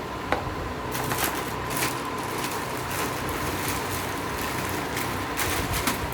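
Rustling and a few light knocks and clicks as plastic fan parts and packaging are handled and set down, over a steady background hum.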